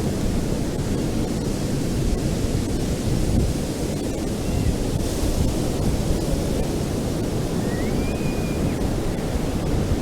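Ocean surf washing in, a steady rushing noise heaviest in the low end.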